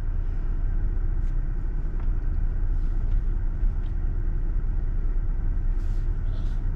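Car engine running, heard as a steady low rumble inside the cabin.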